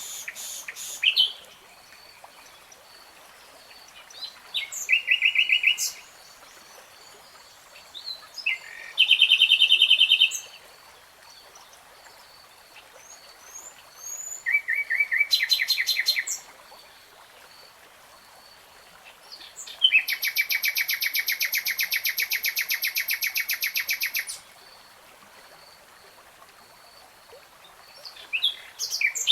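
Nightingale singing in separate phrases a few seconds apart: short trills and rapid runs of repeated notes, the longest phrase running about four seconds near two-thirds of the way through. A faint, evenly pulsed high note runs underneath.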